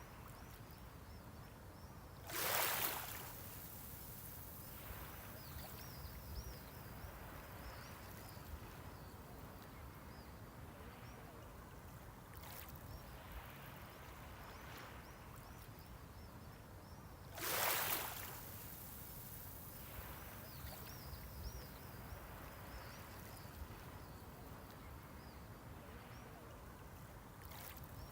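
Sea waves washing onto the shore over a steady surf hiss, with two louder breaking waves, one a few seconds in and one a little past the middle, and two softer ones.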